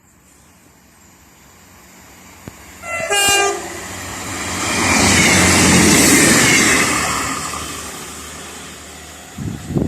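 A train sounds a short horn blast about three seconds in as it approaches, then passes close by, the rushing rail noise building to its loudest around six seconds and fading away. A couple of low thumps come near the end.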